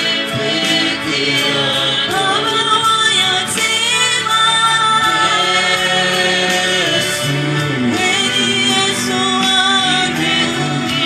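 Gospel worship song: voices singing over instrumental accompaniment with a steady beat.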